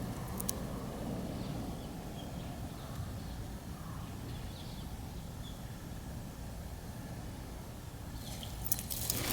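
A few faint, short wild-bird chirps over a steady low outdoor rumble, with rustling or footstep noise starting near the end.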